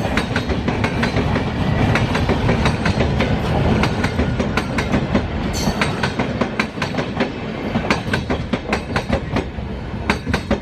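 Train wagons rolling past at speed, wheels clattering in a dense, uneven clickety-clack over rail joints, with a brief high squeal about halfway through.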